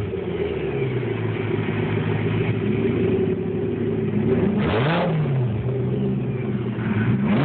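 Sports car engine with an aftermarket performance exhaust idling, with short throttle blips that rise and fall in pitch about 3 and 5 seconds in, and another rev starting near the end.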